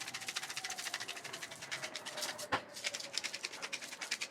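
Hand-twisted salt and pepper mill grinding seasoning onto food: a rapid, fine, even clicking, with a brief pause and one sharper click about halfway through.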